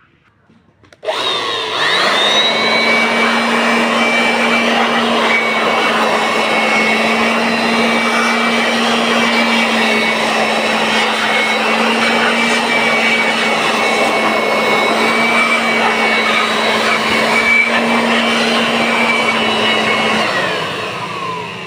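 Electric air blower starting about a second in and whining up to speed, then running steadily as it blows dust out of an amplifier chassis, and beginning to wind down near the end.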